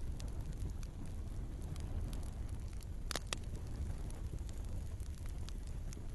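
Wood fire burning in a fireplace: a steady low rumble with scattered crackles from the logs, and two sharp pops close together about three seconds in.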